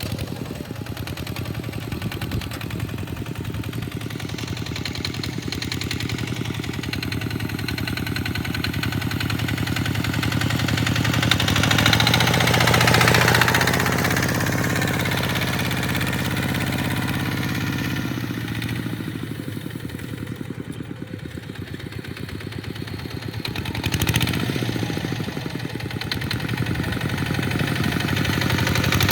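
Tractor engine running under load while plowing sand, growing louder for a couple of seconds near the middle and again near the end.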